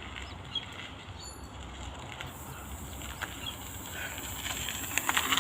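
Steady low outdoor rumble with a few faint bird chirps; near the end it grows louder, with crackling knocks on the microphone.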